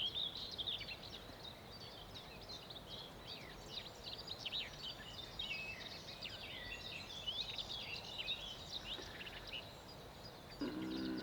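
Wild birds singing in the dawn chorus: many short chirps, whistles and trills from several birds over a faint steady hiss. A low voice starts near the end.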